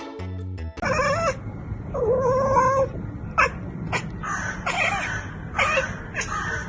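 Cat meowing over and over, a series of short and drawn-out calls that bend in pitch, the longest about two seconds in, over a steady low background rumble.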